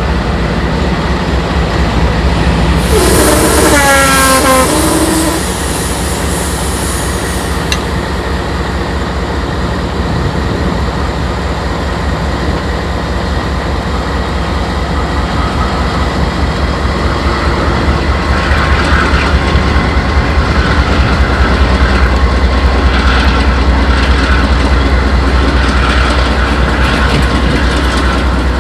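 Diesel freight locomotive working as a distributed-power unit, throttled up with a loud, deep, steady engine rumble. A brief high hiss with a sliding squeal comes about three seconds in. In the last third, rhythmic squeaking and clatter from the train's cars repeats about every second and a half.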